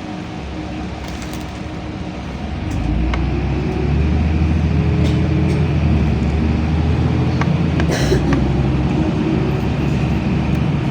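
LiAZ-5292.65 city bus heard from inside the cabin: the engine and drivetrain run and grow louder about three seconds in as the bus picks up speed, with scattered interior rattles and clicks.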